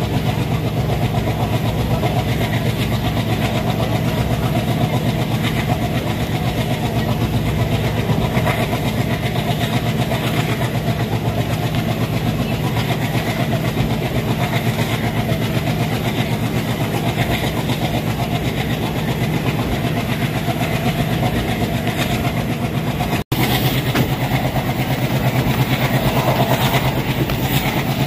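Passenger train hauled by an ALCO WDG3A diesel locomotive running at speed, heard from on board: steady, loud running noise with the diesel engine's chugging underneath. The sound cuts out for an instant about 23 seconds in, then carries on.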